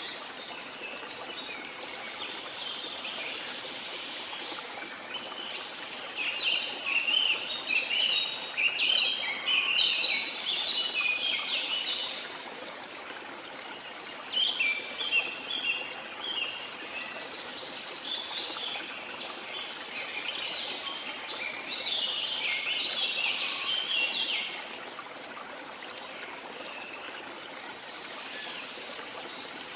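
Steady rush of flowing water with many small birds chirping and singing over it in two busy spells, the birdsong dying away near the end.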